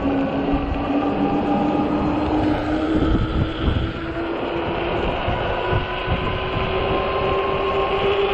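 Electric hub motor of a 48 V fat-tire e-bike whining steadily under power, its pitch climbing slowly as the bike gathers speed. Heavy wind buffets the microphone.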